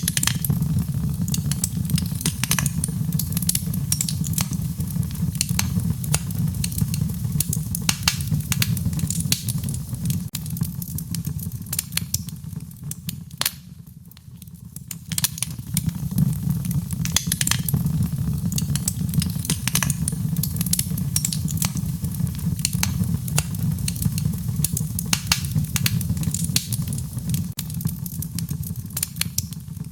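Wood fire burning in a fireplace: rapid, irregular crackles and sharp pops of burning logs over a steady low rumble of the flames. The fire dies down briefly about halfway through, then swells back up.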